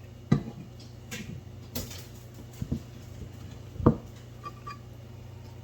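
Hands pressing and tucking pizza dough into a skillet: a handful of soft, scattered taps and knocks over a steady low hum.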